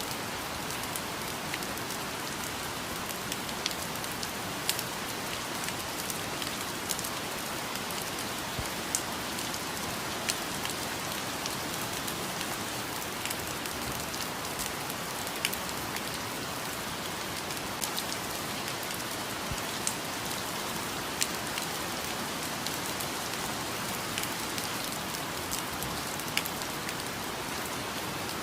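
Steady rain falling on foliage, an even hiss with frequent sharp drop impacts scattered throughout.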